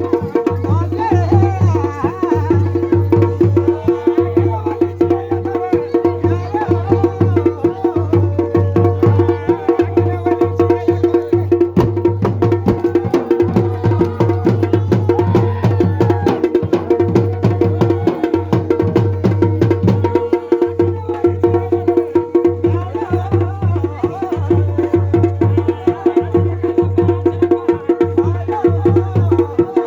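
Garhwali dhol and damau drums playing a fast, dense mandan rhythm without a break, over steady held tones and a wavering melody.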